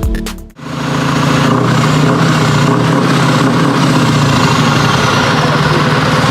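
Electronic music cuts off about half a second in. Then a heavy truck's diesel engine runs steadily and loudly at a constant speed.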